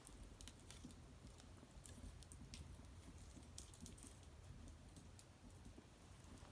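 Small wood fire crackling faintly: scattered, irregular sharp pops and ticks, one louder pop about three and a half seconds in.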